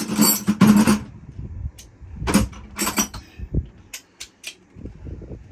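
Metal hand tools and parts clinking, rattling and scraping: a longer rasping clatter at first, then two shorter scrapes and a few sharp ticks.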